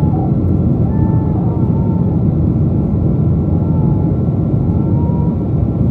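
Steady cabin noise inside a Boeing 777-200 airliner: an even, loud rumble of engines and air systems, with a thin steady whine above it.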